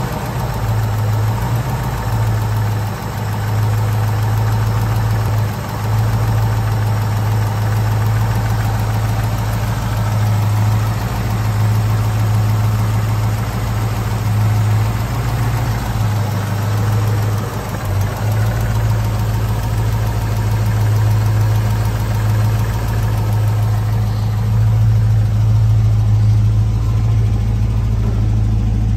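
A Ford small-block V8 in a 1971 Ford XY Fairmont idling steadily, with a deep, even hum and a few brief dips.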